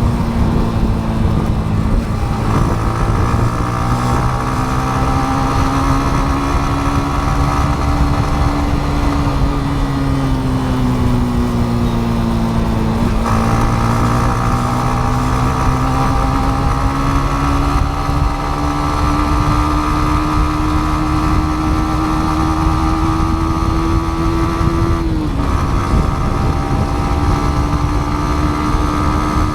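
Yamaha MT-15 motorcycle's single-cylinder engine running under way, its pitch slowly rising and falling with the throttle, with a slow dip around the middle and a sudden drop in pitch a few seconds before the end.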